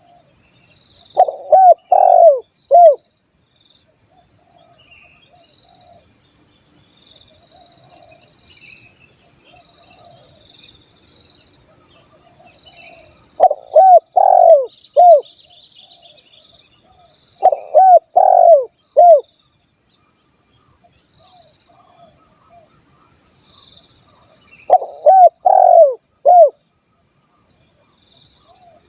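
Spotted dove (tekukur) cooing: four loud phrases of about four notes each, every note swelling up and falling away, with several seconds between phrases. Under them runs a steady high-pitched insect buzz. This is the song used as a lure call to draw wild spotted doves.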